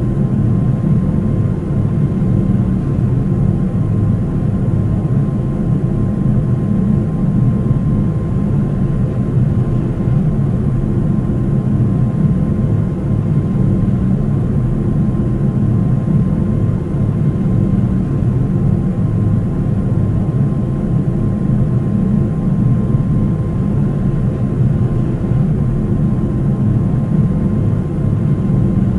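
Steady cabin noise of a Boeing 737-800: an even low rumble from the engines and airflow, with a faint steady tone above it.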